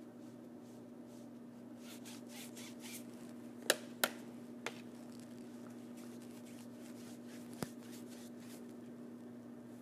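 Paintbrush working on a stage backdrop: soft scratchy brush strokes, with four sharp clicks or taps in the middle, over a steady low hum.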